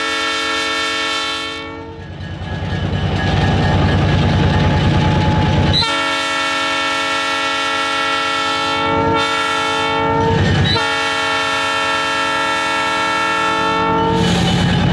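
Diesel locomotive's multi-chime air horn sounding the grade-crossing signal: a long blast that ends about two seconds in, then another long blast, a short one and a final long one that ends near the end. Between blasts the locomotive's diesel engine rumbles.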